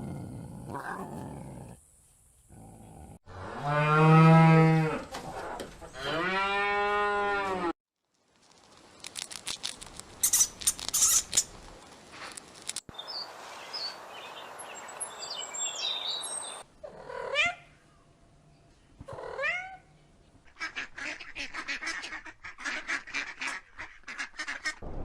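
A run of different animal calls one after another: two long, deep, pitched calls early on, then clicking and chirping, two short rising calls, and rapid clicking near the end.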